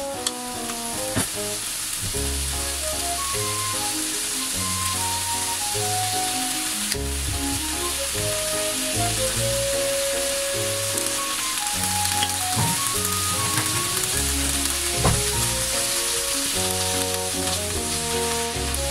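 Bean sprouts, cabbage and other vegetables sizzling in a hot frying pan as they are stir-fried, with a few light clicks of chopsticks knocking the pan. Background music with a bass line plays alongside.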